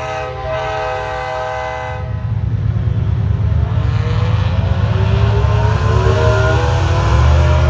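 A loud, steady horn-like chord for about two seconds over a deep rumble. Then a rumbling engine grows louder, its pitch climbing steadily.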